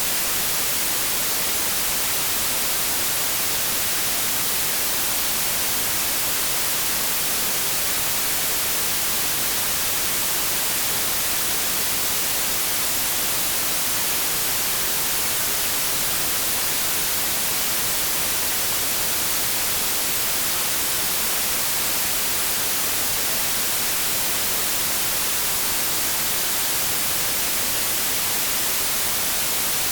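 Continuous synthetic white noise: a steady, even hiss, strongest in the high end.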